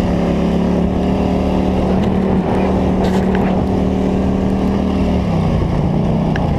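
Polaris Scrambler 850 ATV's twin-cylinder engine running at a steady speed under way, dipping in pitch about five seconds in and then picking back up.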